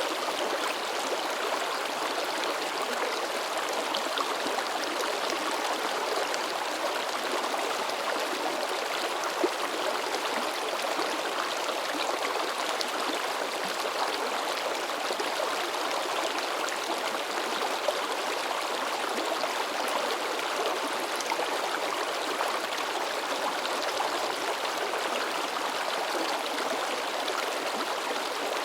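River water babbling and splashing over rocks: a steady rush of flowing water, with a couple of slightly sharper splashes partway through.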